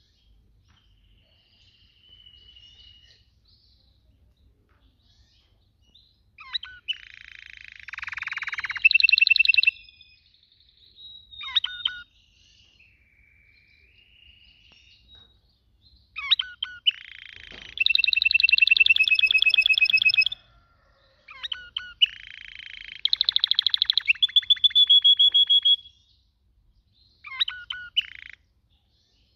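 Domestic canary singing: phrases a few seconds long made of fast trills and rolls, with short pauses between them.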